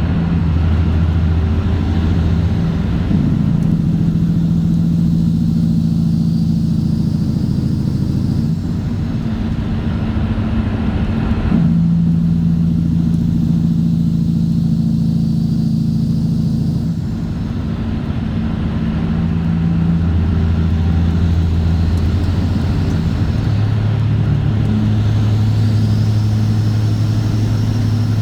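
Straight-piped Cat C15 ACERT diesel engine of a Kenworth W900 running loud under way. Its deep exhaust note holds steady, then steps to a new pitch several times, with short dips in loudness around a third and two thirds of the way through.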